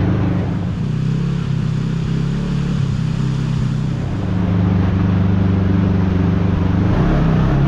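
Kawasaki KRX side-by-side's parallel-twin engine running steadily at trail speed, picking up a little about halfway through.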